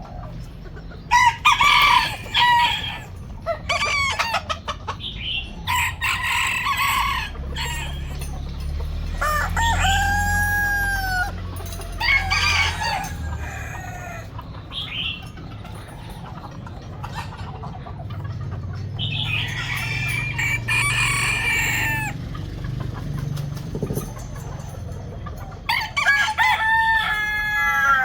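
Chickens clucking in short bursts, with a rooster crowing one long arched call about ten seconds in and another near the end.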